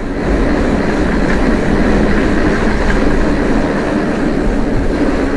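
Mondraker e-mountain bike rolling along at speed: tyre noise and the bike rattling, with heavy wind rush on the helmet-camera microphone and a faint steady low hum underneath.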